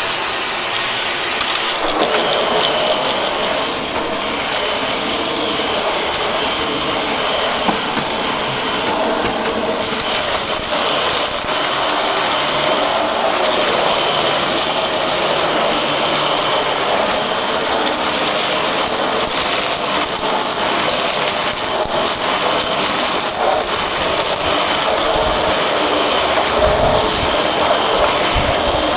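Dyson vacuum cleaner running steadily: a high motor whine over a rushing suction noise as it is worked over a rug.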